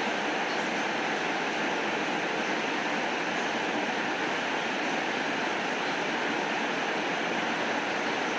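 Steady rain falling: a constant, even hiss with faint ticks now and then.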